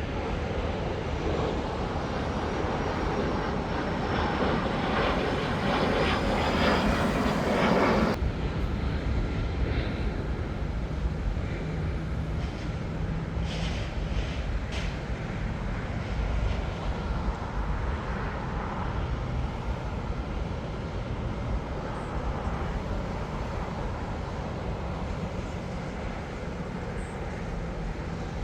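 Jet airliner engines: a loud rush that builds for about eight seconds and cuts off abruptly, then a quieter, steady jet rumble with a low hum.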